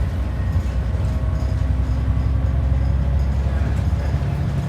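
ADL Enviro 400 double-decker bus running, heard from on board: a steady low engine drone, with a higher hum coming in near the end.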